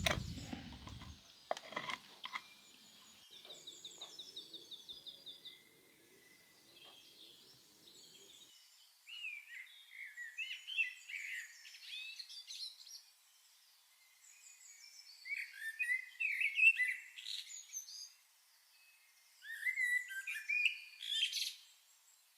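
Birds chirping and twittering in bursts, with a fast trill of quick repeated notes about three seconds in. A few knocks and a short low rumble come at the very start.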